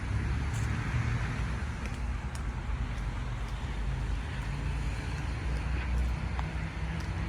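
City road traffic: a steady low rumble of car engines and tyre hiss.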